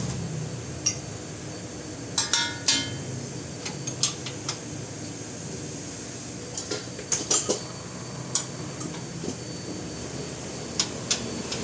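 Scattered metallic clinks and taps of hand tools and loose bolts against metal, over a steady background hum.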